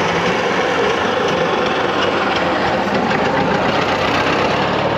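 Engines of open vintage cars running as the cars drive past close by.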